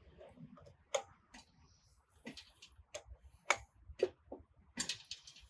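Spanner clicking and tapping on metal hydraulic pipe fittings while they are tightened: about eight sharp, irregular clicks and knocks, roughly half a second apart, with a quick cluster near the end.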